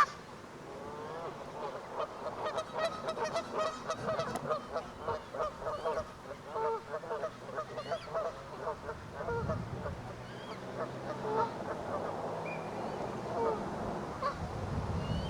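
A flock of Canada geese honking continuously, many short overlapping calls, densest a couple of seconds in. A sharp knock at the very start is the loudest moment.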